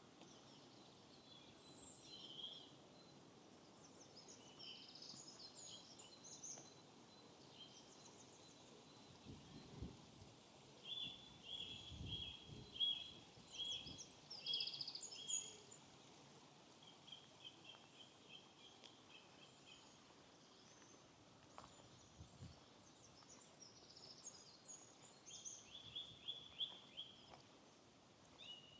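Small songbirds chirping and singing faintly, with quick runs of repeated chirps in the middle and again near the end. A few soft low thumps come in between.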